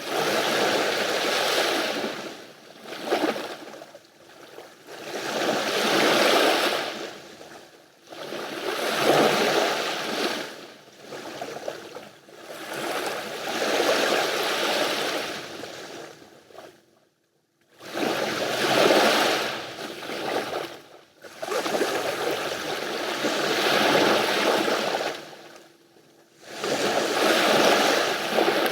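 Sea waves washing onto the shore, the noise swelling and ebbing every few seconds, with one brief drop to near silence a little past halfway.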